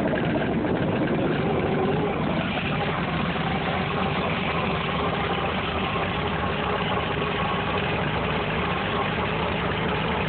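1960 Farmall 460 tractor's gasoline six-cylinder engine idling steadily just after a cold restart, not yet warmed up.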